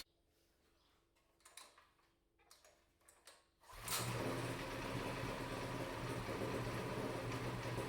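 Predator 212cc single-cylinder four-stroke engine comes in abruptly about four seconds in, after a near-silent stretch, and then runs steadily with the choke partly on. It is running again after its carburetor was cleaned of residue from stale fuel.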